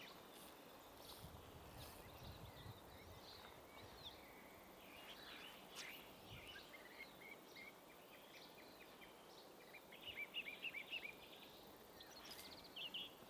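Quiet outdoor stillness with faint bird chirps scattered through it; about ten seconds in, a bird gives a quick run of eight or so short, high chirps.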